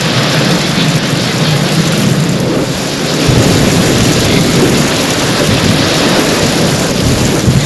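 Heavy rain falling steadily in a thunderstorm, with a low rumble of thunder swelling about three seconds in.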